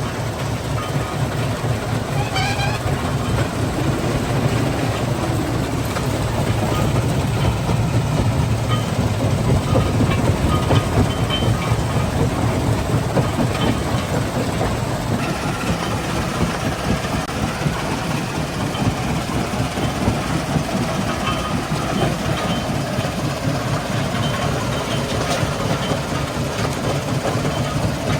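Stone crushing plant machinery running: a steady, dense rumble and rattle of rock being crushed and carried along.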